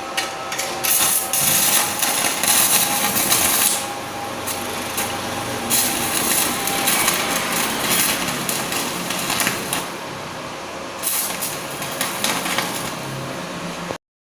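Inverter welding machine striking and holding an arc, a steady crackling hiss with irregular sputters and a faint steady whine underneath, as the machine with its rewound inductor is test-welded.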